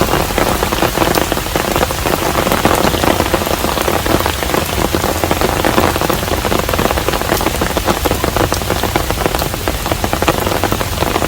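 Steady rain falling on a hanok, a traditional Korean house, with a dense, even patter of drops.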